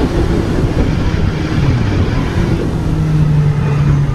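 Suzuki GSX-S 750's inline-four engine running under way, with heavy wind rush. The engine note dips about one and a half seconds in, then settles to a steady, slightly higher note from about two and a half seconds.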